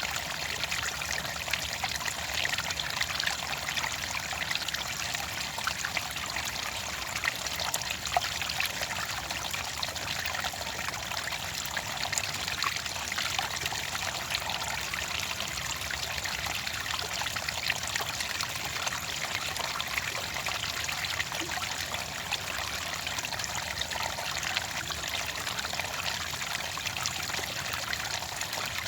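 Clear water trickling and splashing steadily, a small stream or water falling in a thin flow, with a dense patter of tiny splashes.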